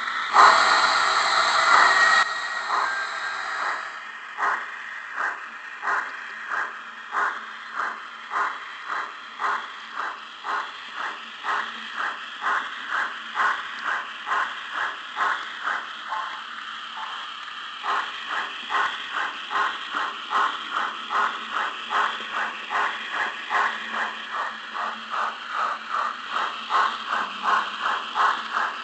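Steam locomotive setting off: a loud hiss of steam for the first two seconds or so, then regular exhaust chuffs that quicken from about one and a half to about three a second as it gathers speed.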